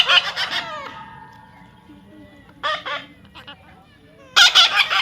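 A parrot squawking: three loud, harsh calls, one at the start, a shorter one partway through and another near the end.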